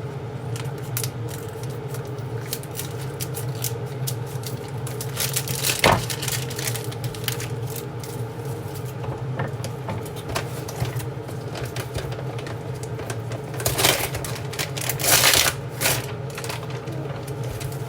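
Kitchen cooking sounds: scattered light clicks and clatters over a steady low hum, with a few louder short scrapes or rustles about six seconds in and again near the end.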